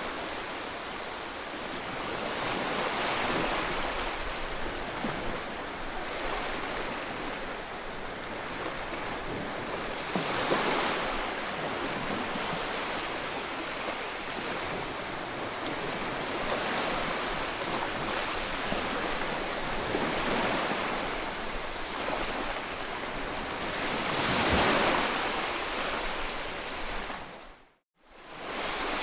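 Sea waves breaking and washing up the shore, a steady rush that swells with each wave, about five surges in all. The sound cuts out for a moment about a second before the end.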